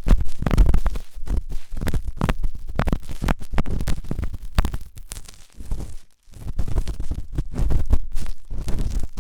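Forceful ASMR ear cleaning: a tool scraping and rubbing hard against an ear, in quick, dense scratches. There is a brief pause around six seconds in.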